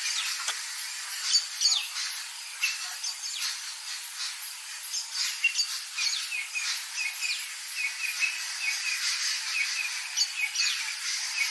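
Wild birds calling and chirping, over a fast, regular, very high pulsing chirp of insects: an African bush daytime chorus.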